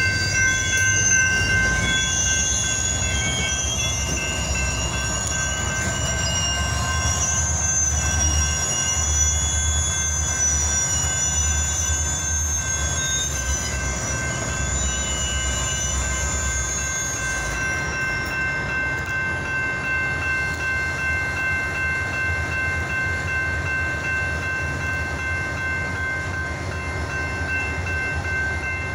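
Freight train of covered hopper cars rolling past, a steady low rumble with a wavering high wheel squeal. The squeal and much of the rumble die away about two-thirds of the way in, leaving a quieter rumble. Steady high ringing tones continue throughout.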